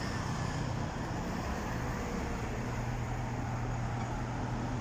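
Street traffic noise with a steady low engine hum from motor vehicles running at the roadside.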